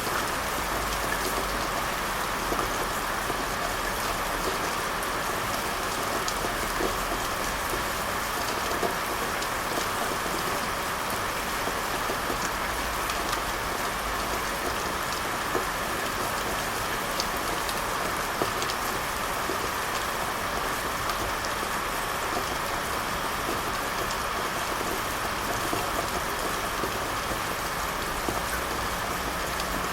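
Steady rain falling, an even hiss with many small scattered drop ticks on a surface and a faint low rumble underneath.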